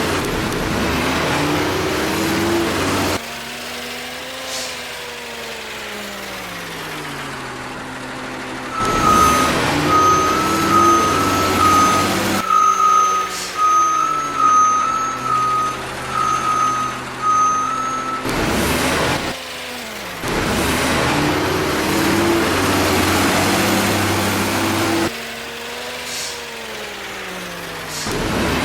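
A truck engine running and winding down in pitch twice, with a pulsing beeping alarm, typical of a reversing beeper, sounding for several seconds in the middle.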